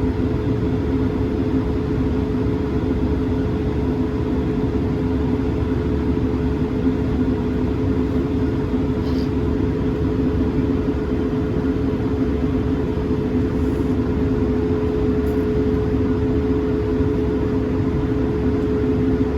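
Steady cabin drone inside an Airbus A220-300, its Pratt & Whitney PW1500G geared turbofan engines running at low power while taxiing: a low rumble with two steady humming tones.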